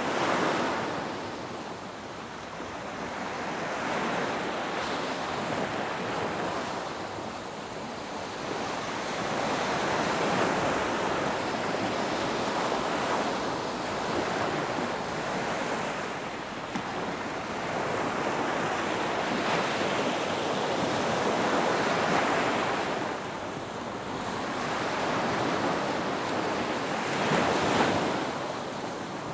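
Ocean waves breaking on a beach and washing up the shore, the surf rising and falling in swells every few seconds.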